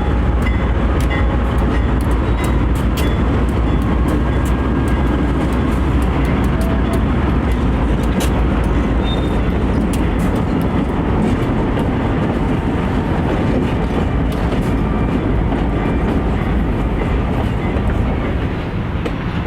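Diesel freight locomotives working a train through a yard: engines running with a steady low rumble, with irregular sharp clicks from wheels and cars moving over the track.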